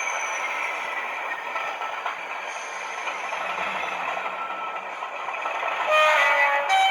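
Bachmann OO gauge Class 37 model locomotive's DCC sound decoder playing a diesel engine running through its small onboard speaker, with a two-tone horn sounding near the end, a lower note and then a higher one.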